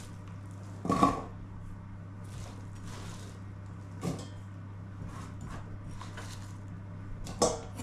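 Kitchen knocks and clatter: one sharp knock about a second in, a lighter one around four seconds, and a quick run of knocks near the end, over a steady low hum.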